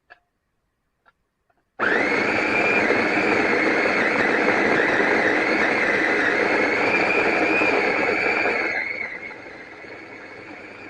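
A JOYAMI electric food processor's motor and stainless steel blades chopping cheese. A few faint clicks come first, then the motor starts suddenly and runs loud and rough with a whine. About two-thirds through it drops much quieter and smoother, the sign that the chopping is pretty much done.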